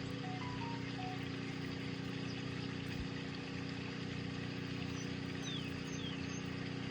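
Steady low hum with an even hiss: continuous background room noise, with no distinct snips or knocks standing out.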